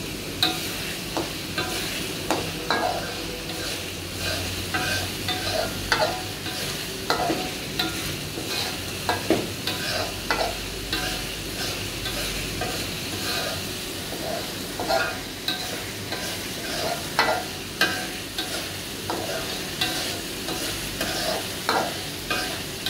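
Chili and tomato paste (sambal tumis) sizzling in oil in a wok, while a spatula scrapes and knocks against the pan as it is stirred, a stroke every second or so.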